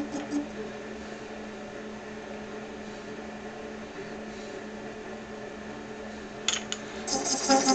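Lathe running steadily at about 300 RPM with a low hum. A few sharp clicks come about six and a half seconds in, then a louder rattling cut begins near the end as the tool cuts into the 3D-printed plastic knob.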